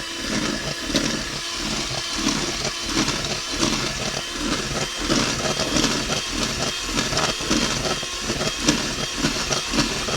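Electric mixer running steadily, its beaters whipping thick canned table cream into butter, with a regular pulsing in its sound.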